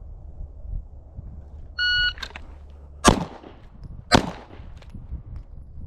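A shot timer gives one short beep, then a pistol fires twice about a second apart, the first shot about a second and a quarter after the beep.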